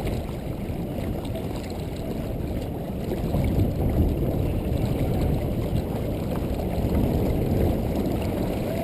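Rushing wind and water noise aboard a small sailboat under way in strong wind: a steady, gusting low rumble of wind on the microphone and water along the hull.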